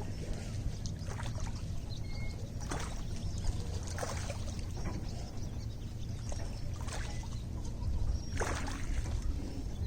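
Lake water lapping, with small irregular splashes about once a second over a steady low rumble.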